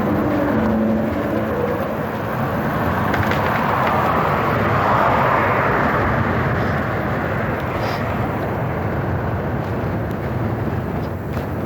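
Steady rushing of wind and tyre noise while riding an e-bike, swelling about halfway through and easing off again.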